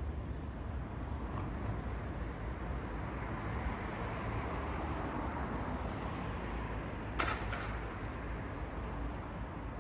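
City street traffic at night: a steady low rumble of distant traffic, with a vehicle's tyre noise swelling and fading mid-way. Two sharp clicks come close together about seven seconds in.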